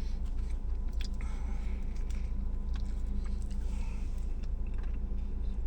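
Faint chewing and mouth sounds of a man eating a toasted sub sandwich, with scattered soft clicks, over a steady low hum.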